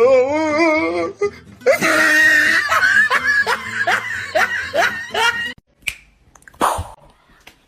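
A person laughing in a rapid run of bursts, after a wavering vocal sound at the start. The laughter stops about five and a half seconds in, and a couple of short sharp sounds follow near the end.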